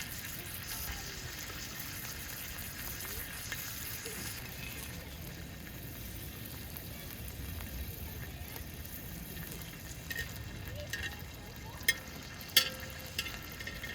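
Food sizzling in a hot pan, a steady hiss, with a few sharp clicks near the end.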